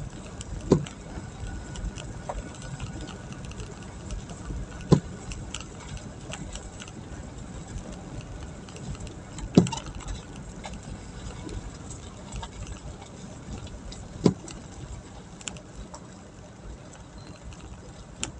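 Steady low rumble of a vehicle's engine heard from inside, with four short sharp knocks spaced about five seconds apart.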